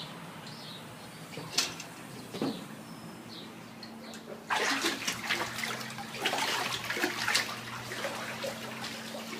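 Water splashing and sloshing in a flooded basement. It starts suddenly about halfway through, after two soft knocks.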